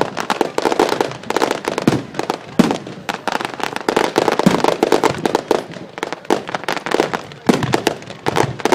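Fireworks display going off in a dense, continuous barrage of bangs and crackling pops with no pause between them.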